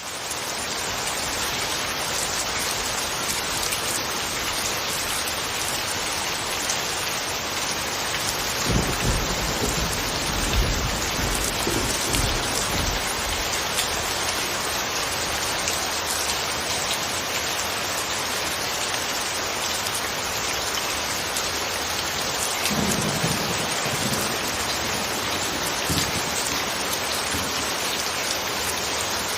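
Steady rain falling, with two low rumbles of thunder: a longer one from about nine seconds in, and a shorter one near twenty-three seconds.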